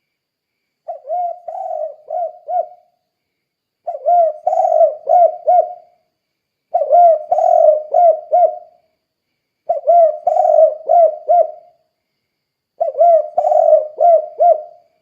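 Spotted dove singing: five phrases of rolling coos, each about two seconds long of several short, low coo notes, repeated about every three seconds.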